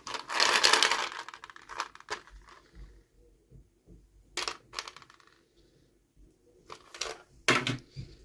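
Small hard plastic toy pieces and packaging clicking and clattering against each other. There is a dense burst of clatter in the first second or so, then a few separate clicks about halfway through and near the end.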